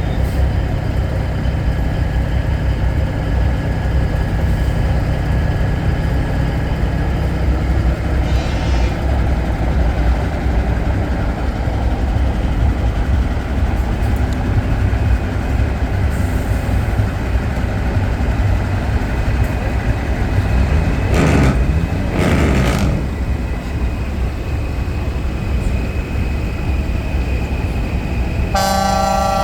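Big truck engines rumbling steadily as trucks drive past, with two short bursts of noise a little past the middle. Near the end a loud multi-tone truck air horn sounds, after a brief fainter horn earlier.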